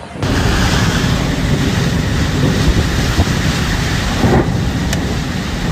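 Rainstorm with strong wind: a loud, steady rushing noise of heavy rain and gusts buffeting the microphone, starting abruptly just after the start.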